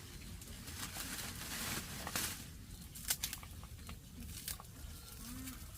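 Rustling and crinkling of packages or bags being handled, with a few sharp clicks and a louder patch of rustling about two seconds in.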